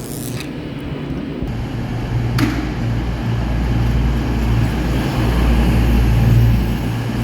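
Railway rumble: a steady low drone from a train that slowly grows louder, with a single click about two and a half seconds in.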